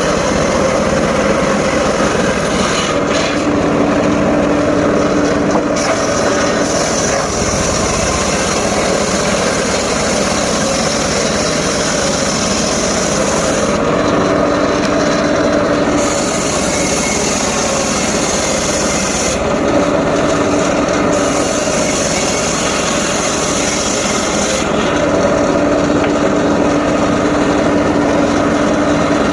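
Engine-driven mobile circular saw running continuously as its blade cuts through mahogany and waru wood. The tone changes four times as the blade goes into the wood.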